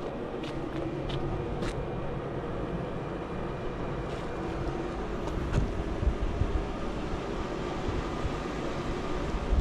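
Steady engine and road noise of a car driving, with a few light clicks in the first two seconds.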